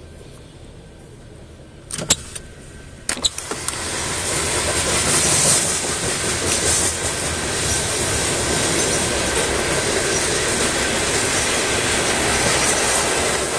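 BNSF freight train of covered hopper cars rolling past on the rails, heard from inside a car. It is muffled for the first few seconds, then after two sharp clicks about two and three seconds in it grows much louder and stays steady.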